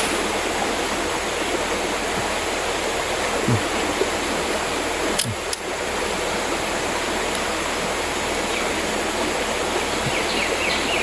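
Steady rush of a clear mountain river's flowing water. Two brief knocks about five seconds in.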